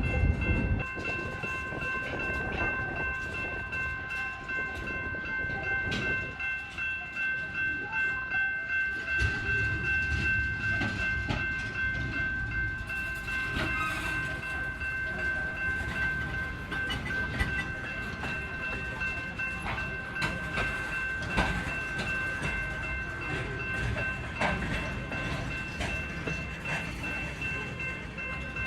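Freight train cars rolling on yard track, wheels clicking over the rails, with a steady high-pitched squeal of several tones held throughout over a low rumble.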